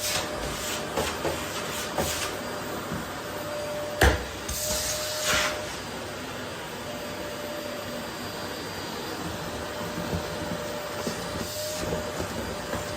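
Vacuum cleaner running steadily, a rushing noise with a faint steady whine. About four seconds in comes a sharp knock, followed by a brief rush of higher hiss, with light clicks scattered throughout.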